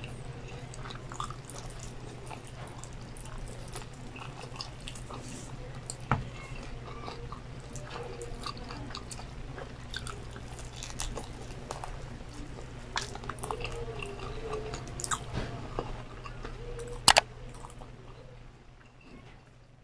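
Close-up chewing and biting of crispy fried chicken, with many small crackly crunches and mouth sounds over a steady low hum. A sharp click about 6 s in and a louder double click about 17 s in; the sound fades out near the end.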